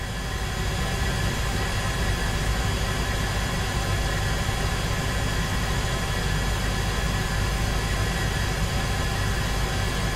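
Steady drone of aircraft engines in flight: a low rumble with several constant high whining tones and airy hiss on top, swelling in over the first second and then holding even.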